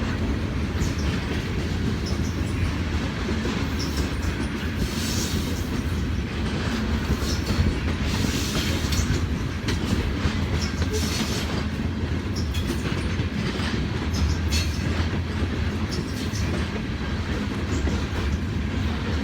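Freight train of grain hopper cars rolling past, a steady rumble with wheels clicking over the rail joints and brief high-pitched wheel squeals scattered throughout.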